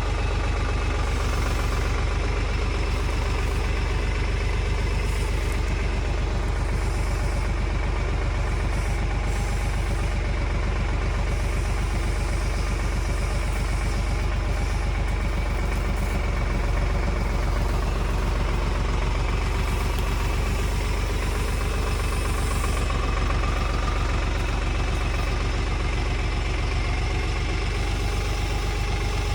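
Tractor engine running steadily at a constant pace, a low even drone.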